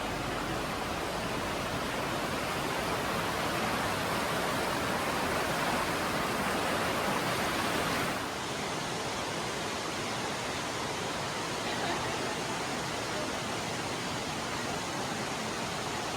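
Steady rushing of flowing water from a creek, an even hiss with no distinct events, dropping slightly in level about halfway through.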